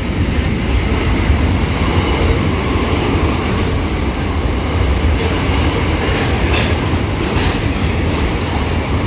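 SCT freight train rolling through, a steady heavy rumble with wheels clacking on the rails and a few brief sharp clanks in the second half.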